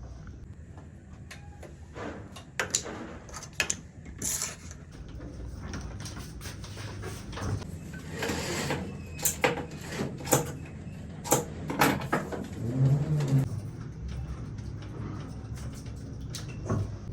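Irregular clicks and knocks of metal parts and tools being handled during washing machine assembly, over a steady low hum, with a brief hiss about eight seconds in.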